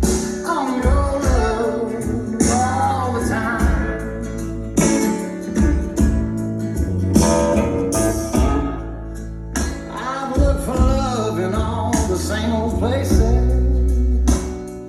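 A recorded song with singing, guitar and a heavy bass line, played loud over a car audio system.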